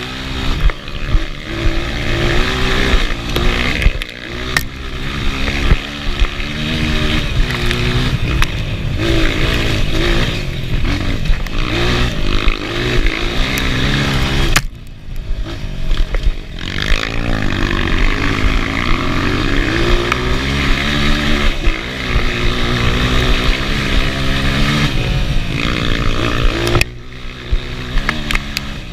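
Enduro motorcycle engine revving up and down continually as it is ridden. The throttle is shut briefly about halfway through and again near the end.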